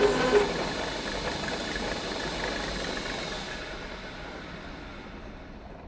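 Milling machine cutting with a rhythmic pulsing chatter that stops about half a second in, followed by a steady whirring noise that slowly fades.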